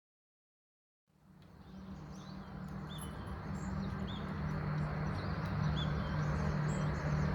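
Silence for about a second, then outdoor ambience fades in: small birds chirping now and then over a steady low hum.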